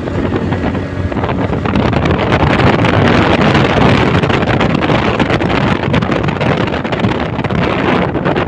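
Wind gusting over the phone's microphone: a loud, steady rushing rumble that swells a little midway.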